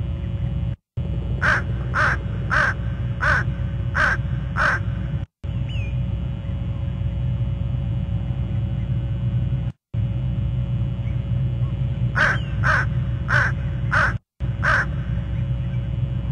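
A bird calling in two series of six harsh, evenly spaced calls, about two a second, the second series some ten seconds after the first, over a steady low rumble. The sound cuts out completely four times for a split second.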